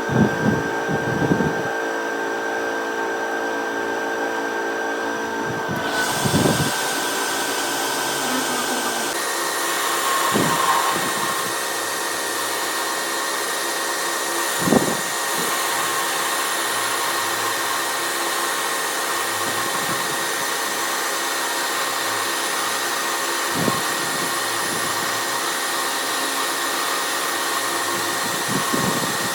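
A workshop power machine's motor running steadily with a whine, its tone shifting a few seconds in, with occasional short knocks of metal work.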